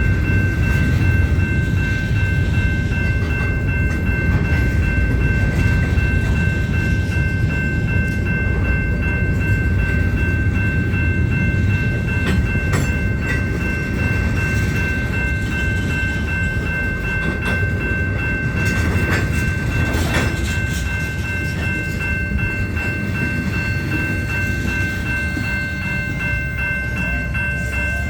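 Union Pacific train cars rolling steadily past a grade crossing, a heavy continuous rumble with scattered clanks. A steady high-pitched ringing tone runs over it.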